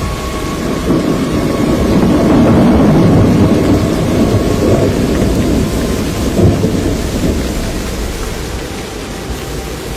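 Thunder rumbling, swelling over the first few seconds and then slowly fading, with a sharper jolt about six and a half seconds in.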